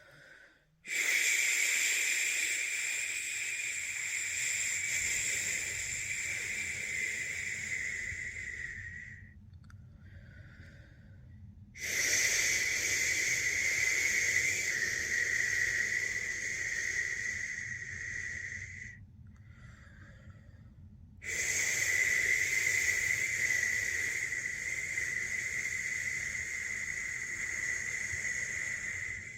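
A person's long 'shhh' shushing sound made by mouth to lull a newborn to sleep, the shush method. Three long shushes of about eight seconds each, with short pauses for breath between them.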